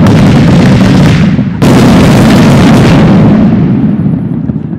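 Professional fireworks: the very loud tail of one aerial shell burst dies away, then another shell bursts with a sudden bang about a second and a half in, its sound fading slowly over the next three seconds.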